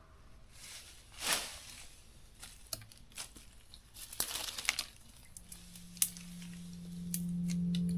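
Scattered crackling and rustling with a few sharp clicks, like material being handled or crushed. A low steady tone of background music fades in about five and a half seconds in.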